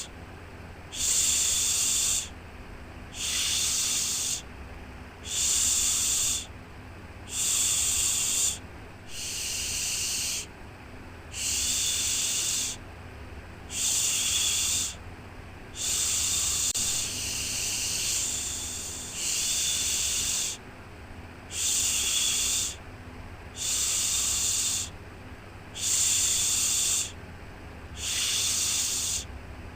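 Repeated 'shhh' shushing sounds for soothing a baby to sleep. Each one lasts about a second, and they come about once every two seconds over a steady low hum.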